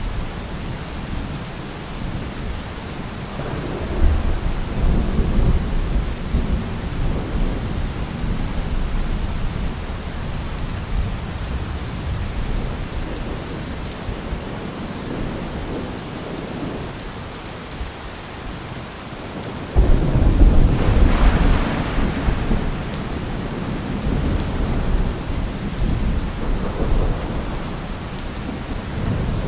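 Steady heavy rain with rolling thunder. A low rumble builds about four seconds in and fades, then a louder, sharper thunderclap about twenty seconds in rumbles on for several seconds.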